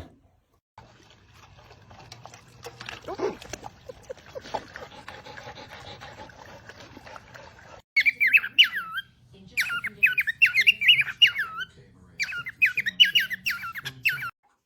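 High-pitched, quickly wavering squeaky calls from a small animal, in three bursts in the second half, after a few quiet seconds of faint rustling.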